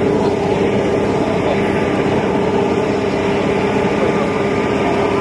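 Steady engine drone holding one constant pitch, with no change in level.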